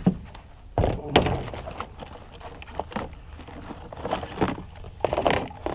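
Irregular knocks and thumps on a kayak, with some rustling, as the boat and fishing gear are handled.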